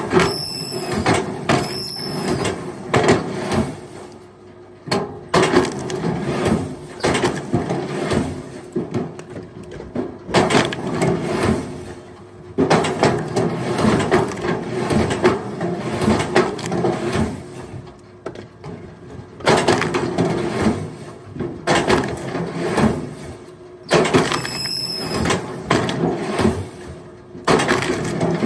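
Firewood logs knocking and clattering against each other as they are handled and tossed, in irregular runs with short pauses, over a faint steady hum.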